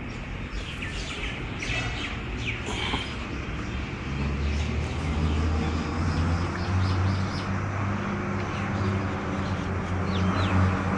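Small birds chirping in the first few seconds, then a steady low hum that sets in about four seconds in and stays louder than the birds.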